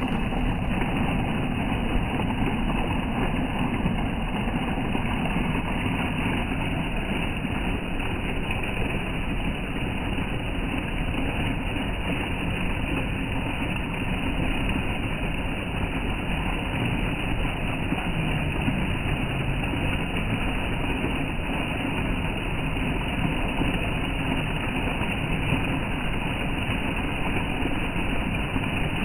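Flowing water rushing steadily, an even noise with no breaks.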